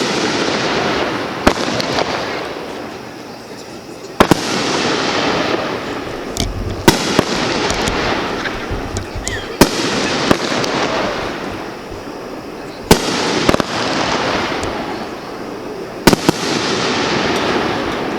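Consumer (Class C) firework shells bursting in the air about every three seconds. Each sharp bang trails off over a couple of seconds, and a few smaller pops fall in between.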